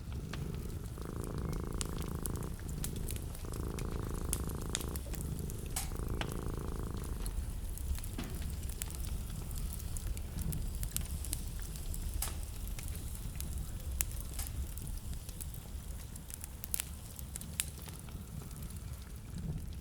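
Wood fire in a fireplace burning with a steady low rumble and frequent sharp crackles and pops. Three steady hums, each about a second and a half long, come in the first seven seconds.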